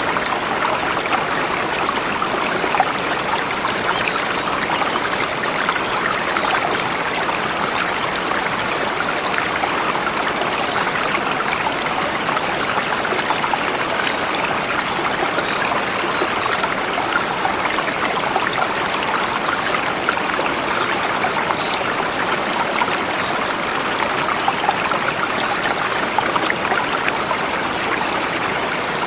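Forest river flowing over rocks: a steady, even rush and burble of water.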